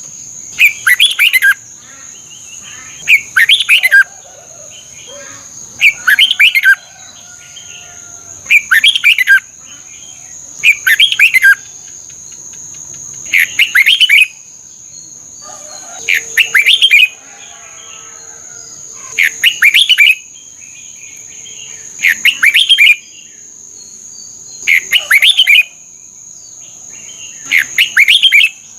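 Red-whiskered bulbul singing its short, loud phrase over and over, about once every two and a half seconds, eleven times. A steady high-pitched whine runs underneath.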